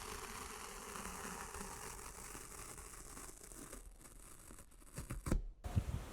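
Red-hot metal ball sizzling and crackling in a liquid, a steady fizzing hiss, with a few knocks about five seconds in.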